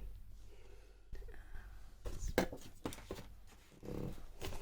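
Quiet handling of the box contents: a few short rustles and taps of paper and card, bunched about two to three seconds in.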